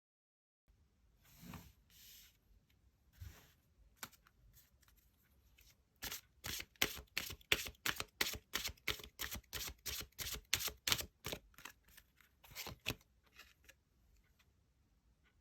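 Tarot cards being handled: a few soft sliding swishes, then a quick, even run of card slaps at about four to five a second for some five seconds, as in an overhand shuffle, and two last slaps.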